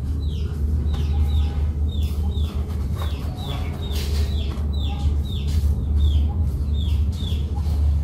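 Repeated short falling chirps from a small bird or chick, two or three a second, over a steady low rumble. Faint scraping knocks come from soil being dug loose in a plastic plant pot with a small hand tool.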